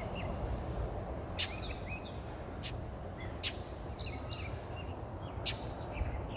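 A bird's sharp alarm calls, one short piercing note every second or two with brief chirps between, from a bird defending its nest. A steady low rumble runs underneath.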